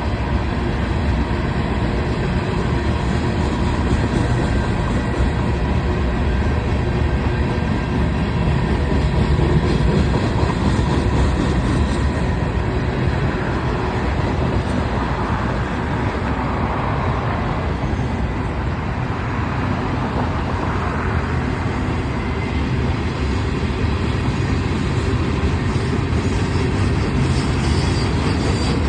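Union Pacific manifest freight train rolling past: steady noise of freight car wheels on the rails.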